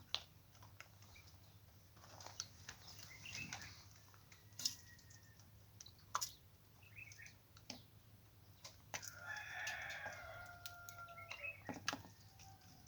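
A rooster crowing once, about nine seconds in, a call of about two seconds. Scattered light clicks and taps and a few short bird chirps run around it.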